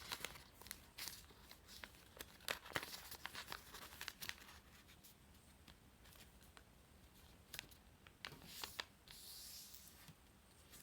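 A sheet of paper being folded and creased by hand: faint crinkles and rustles, most frequent in the first few seconds, with a few sharper crinkles and a short soft swipe near the end.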